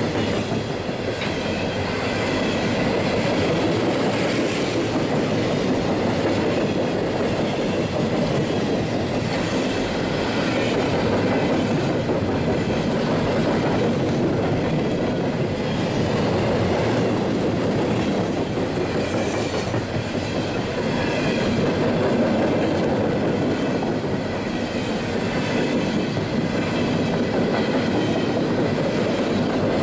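Freight train cars rolling past on the track: a steady, loud noise of steel wheels running on the rails.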